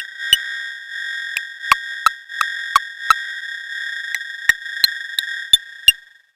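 Electronic synthesizer music: a steady high, pure tone held under sharp clicking percussive hits at about three a second, in runs with short gaps. Everything cuts off just before the end.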